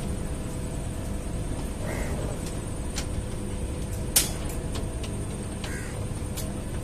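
Running noise of a train heard from on board as it rolls into a station: a steady low rumble with scattered sharp clicks, the loudest about four seconds in.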